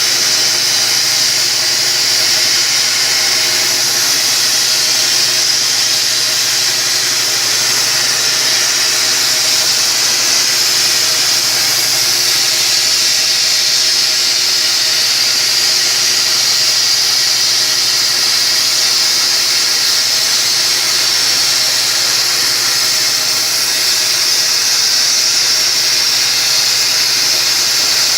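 100-amp plasma cutter's torch cutting on a CNC pantograph table: a steady, loud, high hiss, unbroken throughout, with a faint steady hum underneath.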